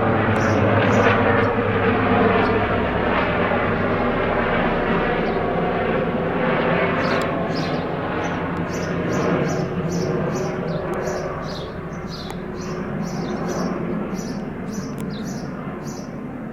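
Airbus H145 twin-turbine helicopter flying past, its rotor and engine noise loudest at first and slowly fading as it moves away. From about seven seconds in, a bird chirps repeatedly over it.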